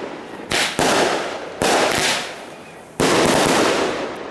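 Fireworks exploding: four loud bangs, the first two close together about half a second in, then one at about a second and a half and one at about three seconds, each trailing off in a rolling echo, the last followed by a few smaller cracks.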